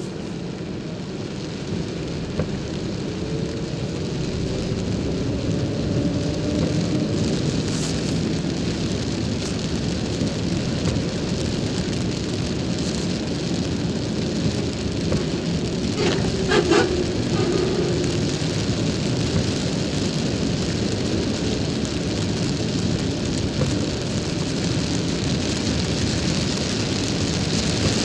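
Rain falling on a car while it is driven, a steady hiss over low road and tyre rumble. A short pitched sound rises above it about sixteen seconds in.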